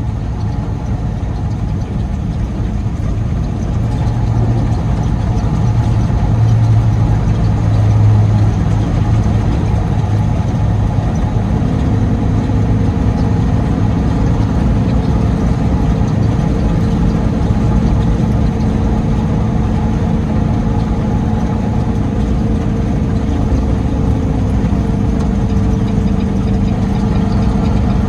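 A Peterbilt 389 semi truck's diesel engine running steadily, heard from inside the cab as a continuous low drone. The engine note shifts up a little about twelve seconds in and again near the end.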